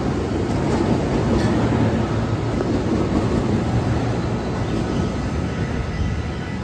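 JR East E233-3000 series electric train cars rolling past as the train pulls out of the station: a steady rumble of wheels on rail that eases off near the end as the last car passes.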